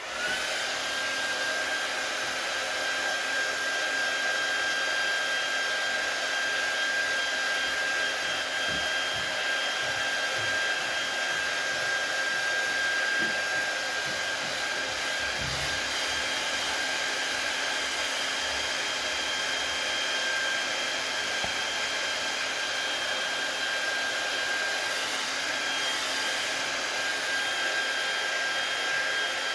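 Handheld hot-air blower switched on and running steadily, a rushing fan noise with a steady whine, used to heat vinyl wrap so it softens and trapped air bubbles can be worked out.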